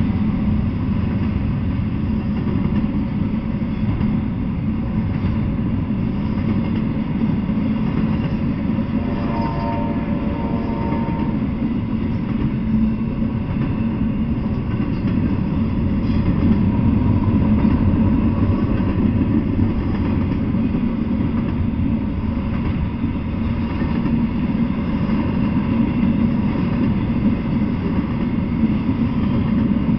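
Double-stack intermodal freight train giving a steady low rumble on the tracks, with a brief higher tone about nine seconds in.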